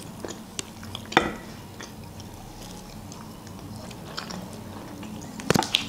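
A person chewing a mouthful of chocolate-covered Viennese waffle, with a few light clicks early on and a short clatter of sharp knocks near the end.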